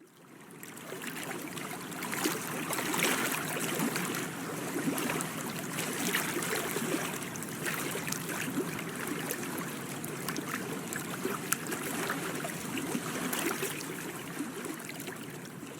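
Water lapping and trickling against the side of a drifting boat: a steady, splashy wash of small laps and drips.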